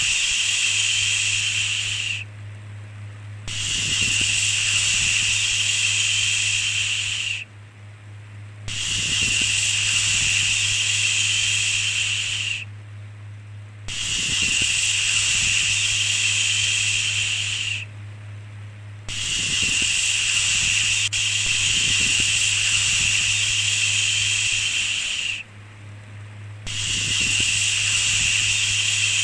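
A "shhh" shushing sound repeated over and over, each shush lasting about three to four seconds (one runs about six) with a short pause between, over a steady low hum.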